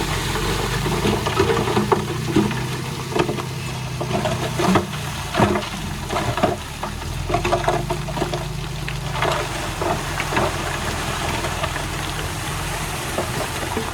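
Heavy earthmoving machinery: a diesel engine running steadily under irregular clatter and knocks, typical of soil and stone being pushed or tumbling.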